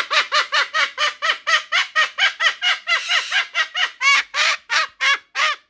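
A pet parrot calling in a rapid series of loud, repeated squawks, about four a second, each note rising and falling in pitch. The series stops shortly before the end.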